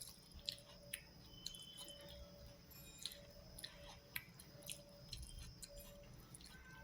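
A person chewing food close to the microphone: quiet, irregular wet mouth clicks and crackles.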